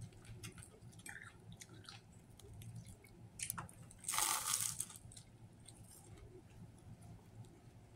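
A person chewing a sub sandwich, with small scattered mouth clicks, and a loud crunchy bite into the roll about four seconds in.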